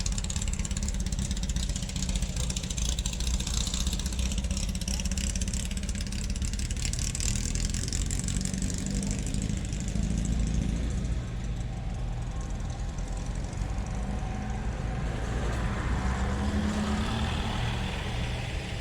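A car engine running with a steady low rumble, with indistinct voices in the background.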